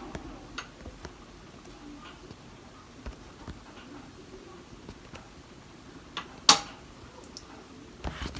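Kenmore Ultra Wash 3 dishwasher standing quiet between stages of its cycle, with faint scattered clicks and ticks and one sharp click about six and a half seconds in.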